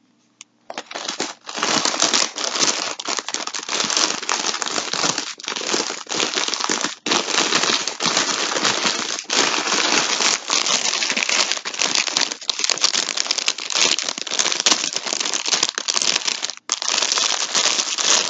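Plastic packaging crinkling steadily as a skein of yarn is handled close to the microphone, with a brief pause near the end.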